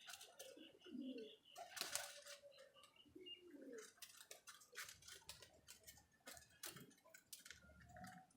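Domestic pigeons cooing several times, with scattered sharp clicks and rustles among them.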